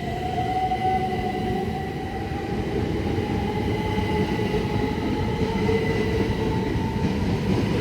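Class 375 Electrostar electric multiple unit accelerating away, its traction motors whining with a pitch that rises slowly over the rumble of the train.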